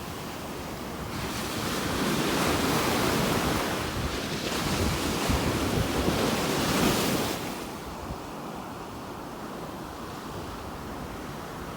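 Ocean surf: a wave breaks and washes in, swelling from about a second in and easing off after about seven seconds, with wind buffeting the microphone.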